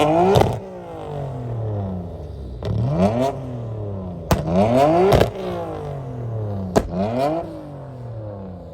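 Tuned car engine free-revved about four times, the pitch rising and falling on each blip, with sharp exhaust bangs as the revs drop.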